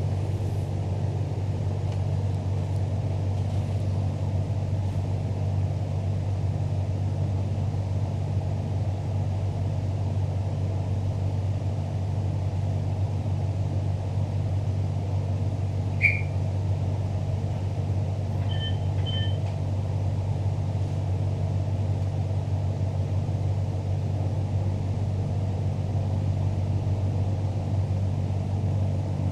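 Steady low rumble inside a Queensland Rail New Generation Rollingstock electric train carriage as it runs. A short sharp squeak comes about 16 seconds in, and two brief beeps follow a few seconds later.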